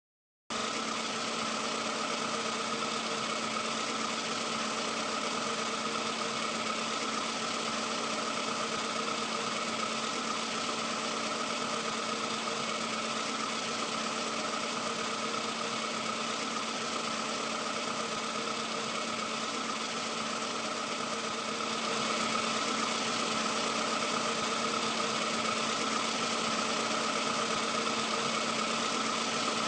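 Engine running steadily, like an idle, with a constant hum over an even hiss; it gets slightly louder about two-thirds of the way through.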